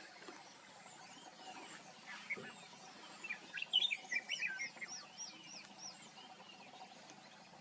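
Wild birds calling over faint background noise: a cluster of quick chirps about halfway through, overlapped by a run of about six high, quickly repeated notes, with a few fainter calls scattered around.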